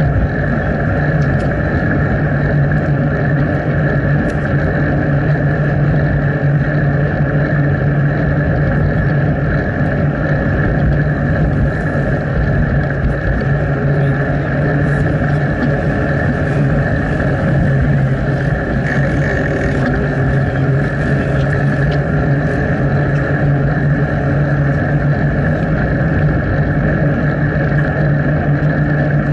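Steady riding noise picked up by a bicycle-mounted Sony HDR-AZ1 action camera: a constant rushing with a low hum underneath, unchanged throughout.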